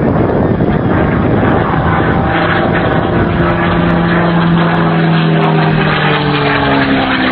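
A P-51D Mustang's Packard Merlin V12 engine running loud in a fly-past. Its propeller-engine note slowly falls in pitch from about two and a half seconds in as the aircraft passes.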